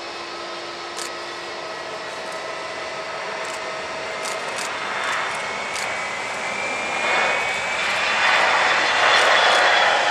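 Jet airliner's engines growing steadily louder as it comes closer, a whine rising in pitch over a swelling rush of engine noise.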